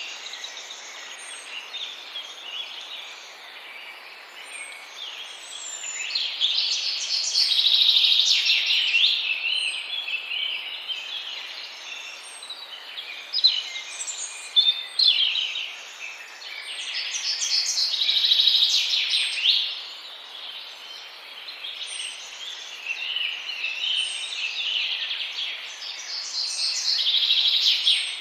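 Small birds chirping and trilling at a high pitch, swelling in bouts about every ten seconds, with short high chirps in between.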